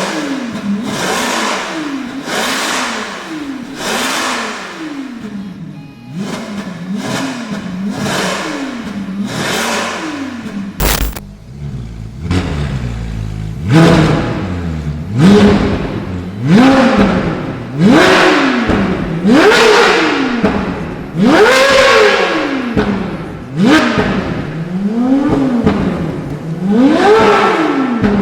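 Ferrari 458 Spider's V8 revved again and again through an iPE titanium exhaust, each blip rising and falling in pitch, about one every second or so. A sharp click about eleven seconds in; after it the revs are louder and climb higher.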